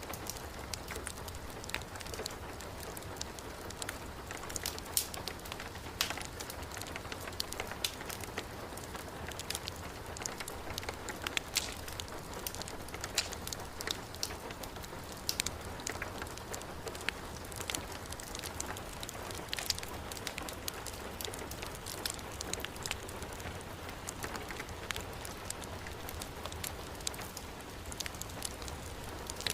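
Heavy rain falling in a steady hiss, mixed with a wood fire crackling: many short, sharp pops scattered irregularly over the rain.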